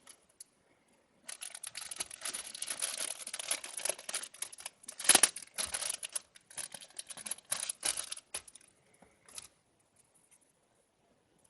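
Crinkling and rustling of packaging material being handled close up. It starts about a second in and runs in uneven spurts for about eight seconds, with its loudest crackle about halfway through.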